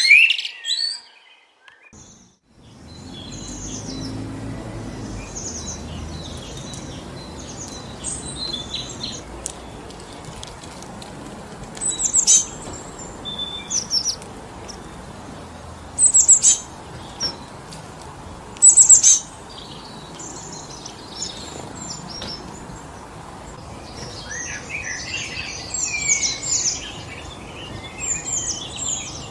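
Wind blowing steadily through forest trees, with songbirds chirping over it: a loud call that breaks off in the first second, a brief drop-out before the wind comes in, then sharp high chirps every few seconds and a busier run of calls near the end.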